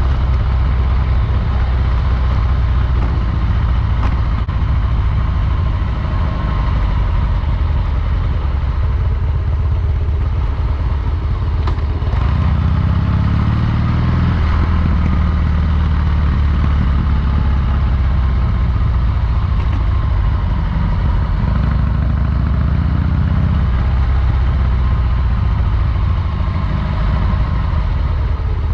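Harley-Davidson V-twin motorcycle engine running under way, with a steady low engine note that swells twice as the revs rise.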